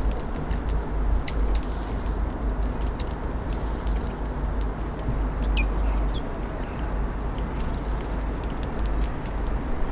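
Small birds giving a few short, high calls about four and six seconds in, over a steady low rumble.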